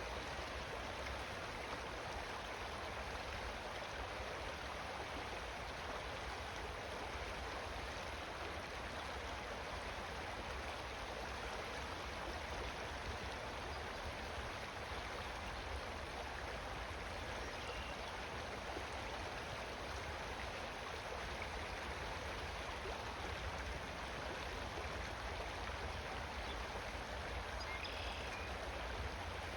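Steady rush of flowing water, running evenly without a break.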